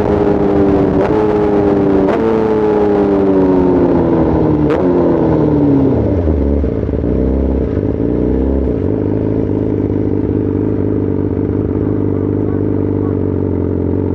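BMW S1000RR's inline-four engine, with a full Arrow exhaust, slowing down: the exhaust note falls steadily, stepping up briefly with downshifts about one, two and almost five seconds in. It then settles to a steady idle about two-thirds of the way through, with a short blip of revs at the very end.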